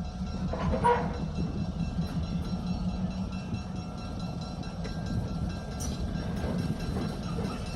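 Train moving slowly during a switching move, with a steady low rumble from the locomotive and rail cars.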